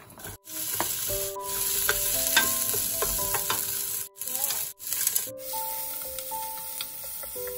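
Chopped onion and other aromatics sizzling in hot oil in a stainless steel pressure cooker pot, stirred with a wooden spoon that taps and scrapes the pot. The sizzle is loudest in the first five seconds, then settles lower. Background music with held notes plays throughout.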